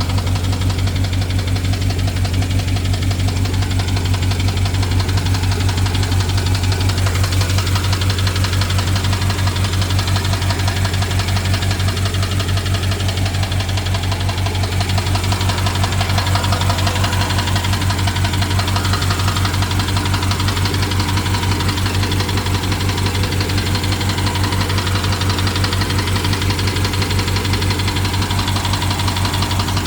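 BMW N63 twin-turbo V8 idling steadily with a quick, even ticking over the low engine hum. The owner reports it as a misfire and ticking that began after the fuel injectors and high-pressure fuel pump were replaced, and wonders whether it is the timing chain.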